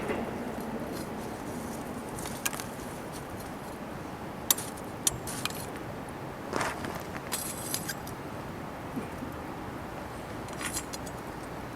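Metal camp cooking gear being handled: scattered light clinks and scrapes, with a short rattle about halfway through, over a steady low hiss.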